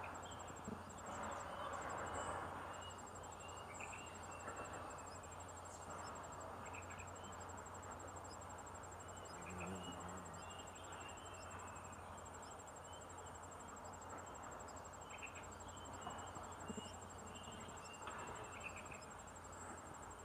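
A high-pitched insect trill, cricket-like, a rapid even pulsing that runs on with one or two brief breaks, with faint short chirps coming and going.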